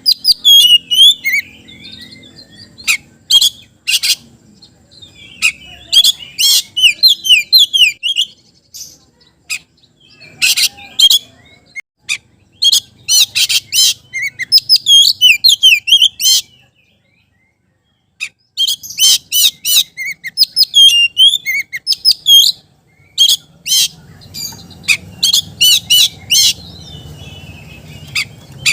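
Oriental magpie-robin (kacer) singing vigorously: loud, rapid phrases of high, varied whistles and trills, separated by short pauses. The song breaks off entirely for about a second and a half partway through.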